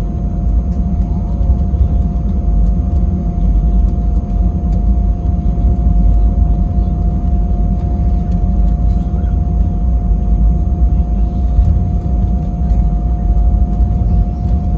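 Airbus A320 cabin noise heard from inside: a steady low rumble of the engines and airflow, with one steady mid-pitched tone held throughout.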